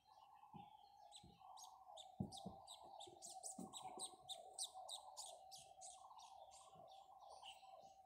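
Birds chirping faintly, with a fast run of high chirps from about two seconds in, over a steady lower warbling tone.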